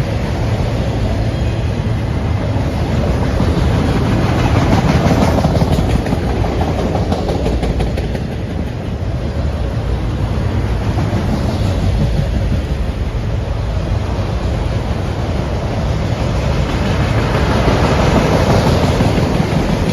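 Norfolk Southern freight train rolling past, steel wheels rumbling and clicking over the rail joints, swelling louder about five seconds in and again near the end.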